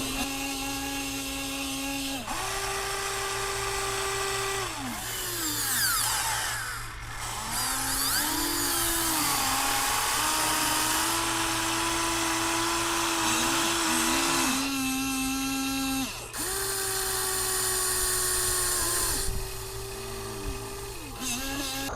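Electric motors and gearboxes of Huina RC construction models whining in spurts of a few seconds. The pitch steps between two or three levels and glides up or down as each movement starts and stops.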